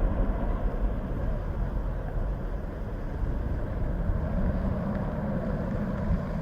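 Steady low rumble of jet aircraft engines, mixed with wind buffeting the microphone.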